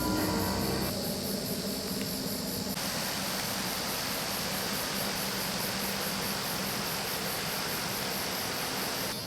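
Background music dying away in the first few seconds, leaving a steady outdoor chorus of insects.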